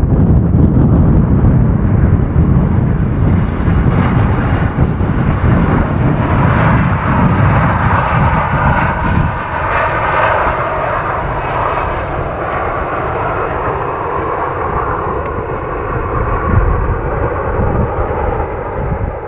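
Boeing 737-800's CFM56 jet engines heard from outside as the airliner lands. A heavy low rumble gives way about nine seconds in to a higher engine sound carrying faint steady whining tones.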